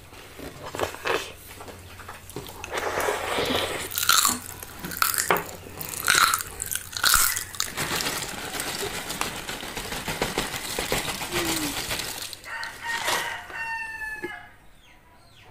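Crisp snack food being crunched and chewed, irregular bursts of crackling crunches over several seconds, easing off near the end, where a few short high-pitched tones are heard.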